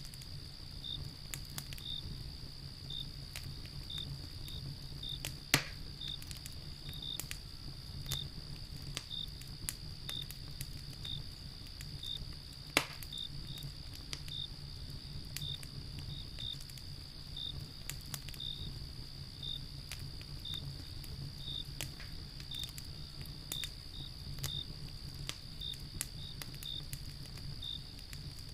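Wood fire crackling with scattered sharp pops, two of them much louder, about five seconds in and again near the middle. Under it runs a steady high trill of crickets with short repeated chirps.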